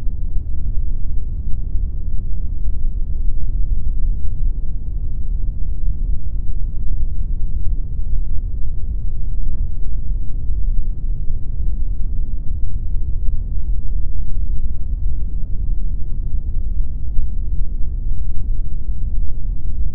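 Steady synthetic pink noise: an even, unbroken hiss that is deep and rumbly, with its weight in the low end and almost nothing in the highs.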